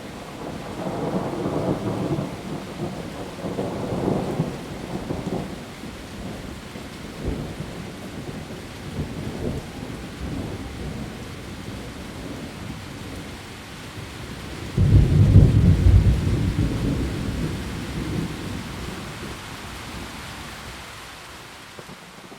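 Heavy, steady rain with rolling thunder: low rumbles in the first few seconds, then a sudden loud clap about two thirds of the way through that rumbles away over several seconds.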